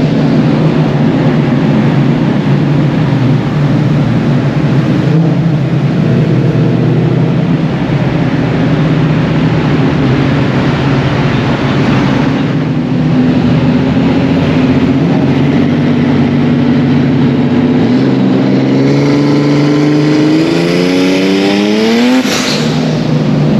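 A car engine running hard at a steady pitch in a tunnel, then revving up for a few seconds near the end before the pitch drops sharply as it backs off, then settling back to steady running.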